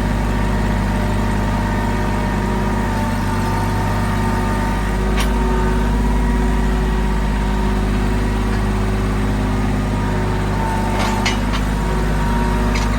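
Mahindra tractor's diesel engine running steadily, with a few sharp knocks about five seconds in and several more near the end.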